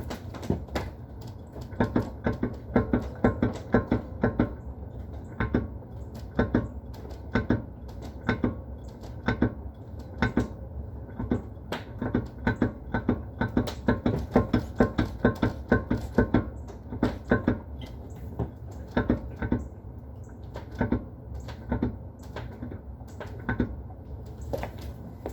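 Repeated clunks from the rear suspension of a BMW E46 M3, coming in irregular runs of several knocks a second over a steady low rumble.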